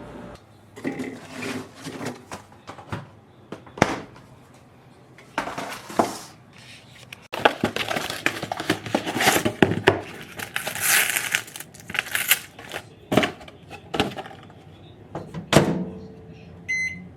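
Knocks, clicks and rustling of things being handled, then a run of short, evenly spaced high beeps near the end.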